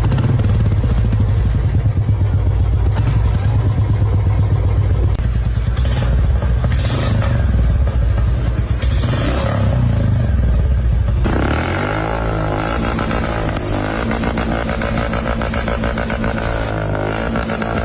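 Motorcycle exhaust running with a deep, low note; about eleven seconds in it cuts suddenly to a different motorcycle exhaust with a higher-pitched note.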